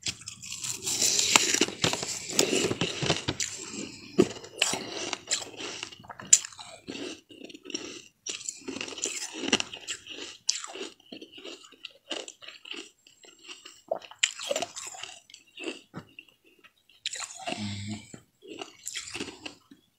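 Close-miked bite into a crunchy white snack: loud, dense crunching for the first few seconds, then irregular crunchy chewing with the mouth closed.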